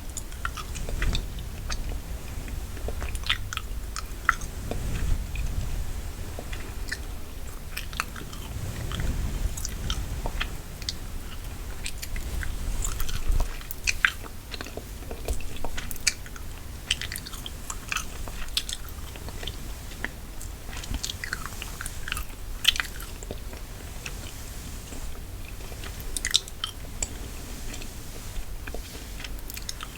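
Gum chewing close to the microphone: irregular wet smacks and clicks of the mouth, many per second with brief pauses.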